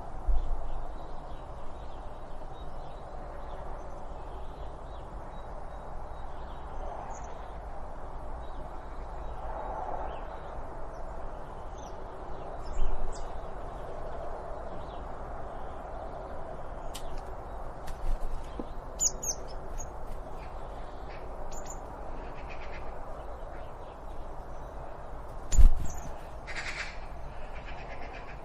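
Wild birds chirping in short scattered calls over a steady low outdoor background rumble, with one loud sudden knock near the end.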